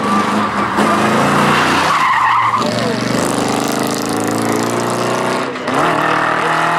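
Group B rally car engine revving hard, its pitch climbing and dropping through gear changes, with a short lift off the throttle a little before the end.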